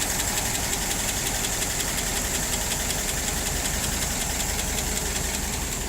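1960 Ford Thunderbird's V8 engine running steadily at idle, newly brought back to life.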